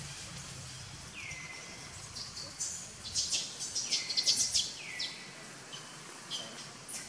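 Birds calling: a few whistled calls that drop in pitch and then level off, and a quick burst of sharp high chirps in the middle that is the loudest part.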